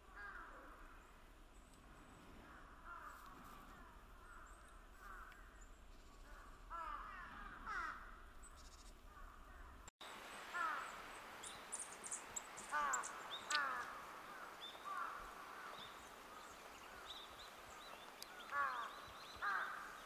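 Wild birds calling in snowy winter woods: repeated short, downward-slurred calls come in clusters, and after about ten seconds sharp, thin high notes join them.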